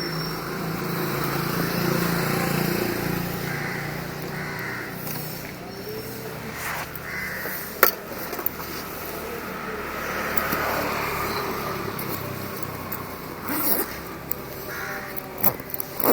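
A vehicle engine running steadily under outdoor street noise, with a few sharp clicks.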